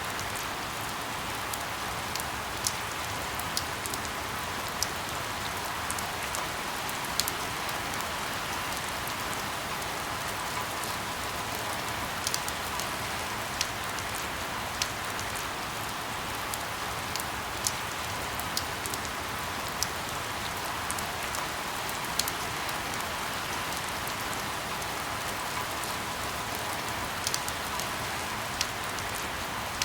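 Steady rain, a continuous even hiss with irregular sharp ticks scattered through it.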